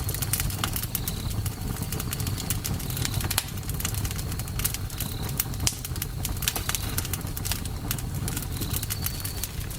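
Campfire burning, with a steady low rumble and frequent sharp crackles and pops of burning wood. Faint, short, high chirps recur every second or two.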